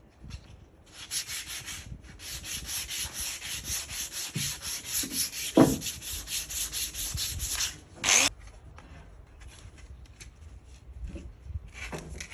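Sandpaper being rubbed by hand over wood in quick back-and-forth strokes, about four a second, with a knock about halfway through. The sanding stops about two-thirds of the way in, followed by one more stroke and a few faint scrapes.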